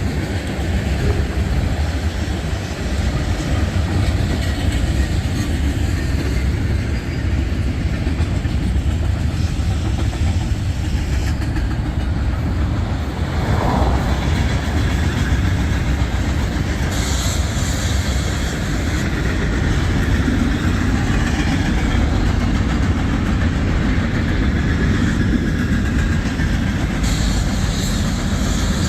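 Union Pacific freight train rolling past, a steady heavy rumble of its cars on the rails.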